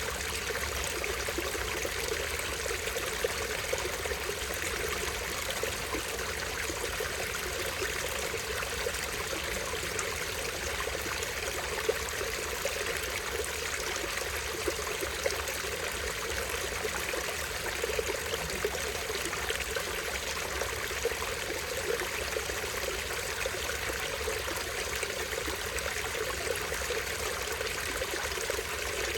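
A small stream running and trickling over a tiny waterfall, a steady unbroken splashing of water.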